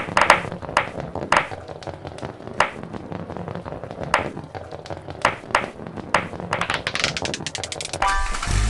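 Sharp taps and clicks of small die-cast metal toy cars being handled, about two a second. Near the end they speed up into a fast run of clicks, and then a louder, steadier sound with a low hum starts.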